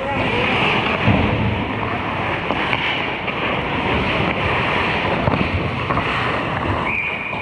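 Ice hockey play: a steady rushing noise of skates on ice, with a few sharp clacks of sticks or puck. A short steady high tone sounds near the end.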